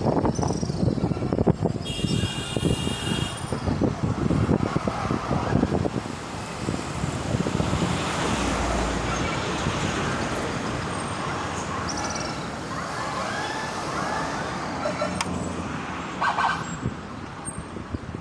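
Road traffic running past on a highway, a steady noise that is choppy and gusty for the first six seconds, with a short high tone about two seconds in.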